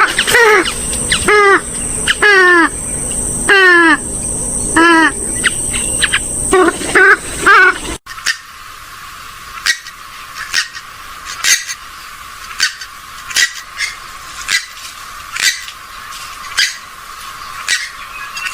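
Recorded calls of swamphens and moorhens: loud calls with sliding pitch in quick series. After an abrupt cut about eight seconds in, a thinner recording of short sharp calls comes roughly once a second.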